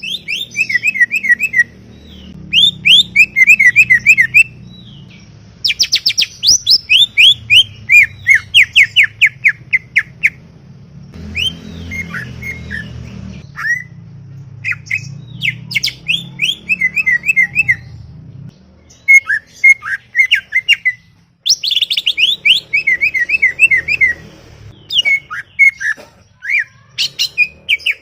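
Cucak ijo (green leafbird) singing loudly in rapid chattering phrases of quick, sharp sweeping notes. The phrases come one after another with short pauses between them.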